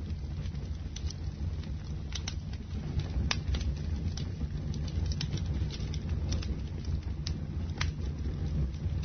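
Wood bonfire burning: a steady low rumble of flames with irregular sharp crackles and pops.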